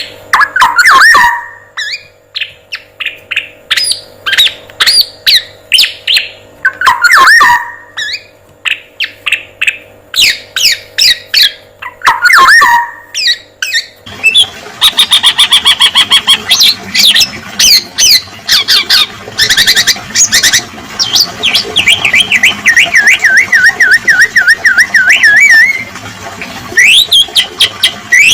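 Bird-song training track of a male black-naped oriole with filler calls from other birds mixed in. The first half has repeated groups of rapid chirping and squawking notes over a faint steady hum. About halfway it switches abruptly to denser, faster trills and a long wavering whistle.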